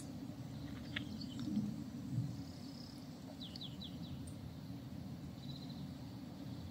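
Faint outdoor morning ambience: a steady low background noise with scattered small bird chirps, including a quick run of three short descending chirps about three and a half seconds in.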